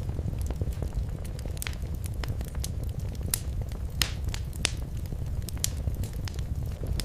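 Wood fire crackling in a fireplace: irregular sharp pops and snaps over a steady low rumble of flame, with a few louder pops about halfway through.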